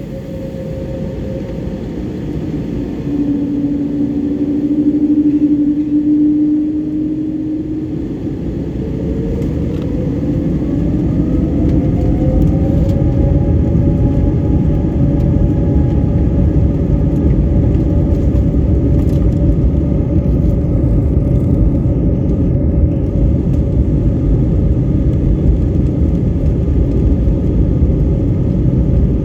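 Airbus A320neo jet engines spooling up: about eight seconds in, their whine rises in pitch and then holds. Under it runs a steady, heavy rumble of the aircraft rolling.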